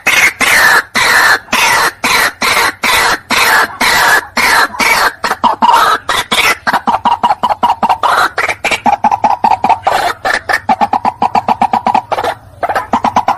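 White-breasted waterhen calling: a loud, rapid series of short, harsh repeated notes that come faster in the second half, with a brief break near the end. This is the call used as a lure for the bird.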